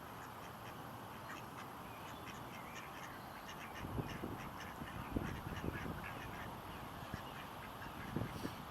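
Ducks quacking repeatedly, with a few short low thumps from wind on the microphone around the middle and near the end.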